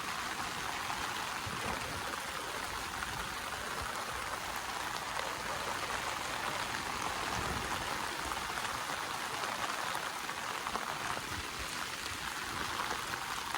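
Steady rain falling during a tropical storm, mixed with the rush of the flowing Los Angeles River, an even, unbroken wash of water noise.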